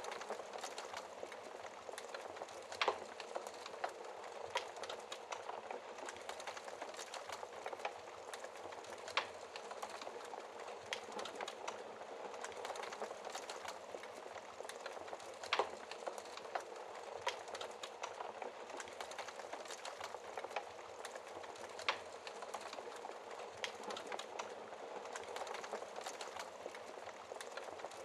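Campfire burning with a steady crackle of burning wood and frequent sharp pops, the loudest a few seconds apart.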